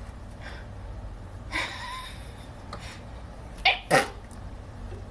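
Short, sharp sneeze-like sounds from a pet animal: a softer one about a second and a half in, then two sharp ones in quick succession near the end.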